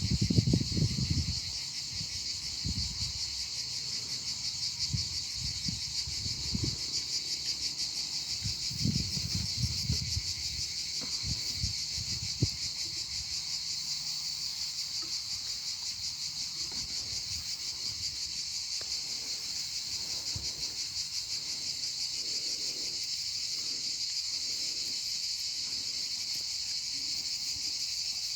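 A steady insect chorus, a dense high, fast-pulsing trill that does not let up. A few low rumbles come in the first ten seconds, and there is a single click a little past the middle.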